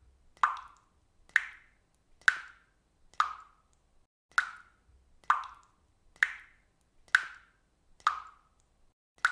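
Water dripping from a faucet: single drops plinking at a steady rhythm of about one a second, each a short, sharp plop that fades quickly.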